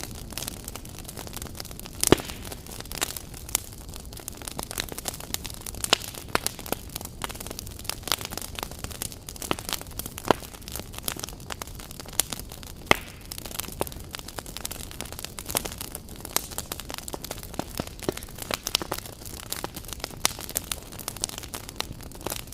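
Wood fire crackling: irregular sharp snaps and pops from the burning logs over a steady soft hiss, with a few louder pops standing out.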